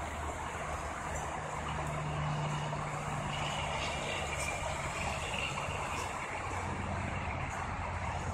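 Steady low hum of a running vehicle engine, with a constant background hiss.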